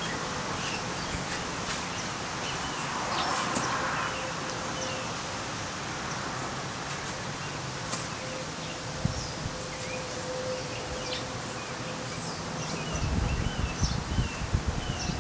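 Small birds chirping and calling outdoors, with a run of short repeated notes in the second half over a steady background hiss. Low thumping rumbles come in near the end.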